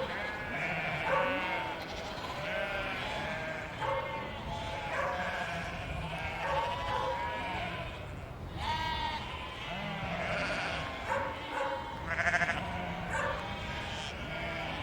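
A flock of sheep bleating, many calls overlapping one after another with no pause, over a low steady background rumble.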